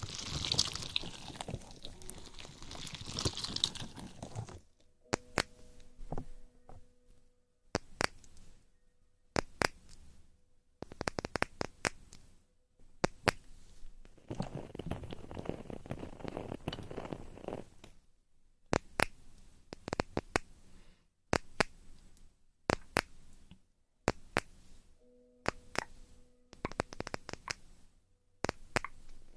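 ASMR trigger sounds made right at the microphone: stretches of close rustling and crinkling lasting a few seconds each, broken by short pauses and many sharp clicks and pops.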